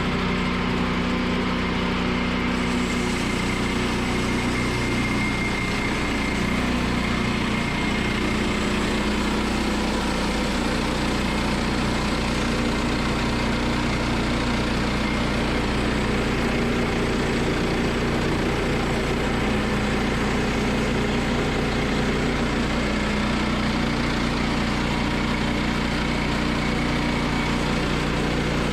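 Gasoline engine of a Woodland Mills portable band sawmill running steadily. About three seconds in, a higher hiss joins it and stays.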